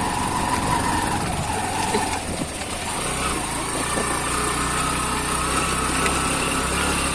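Motorcycle engine running, uneven at first and then holding a steady, even note from about three seconds in.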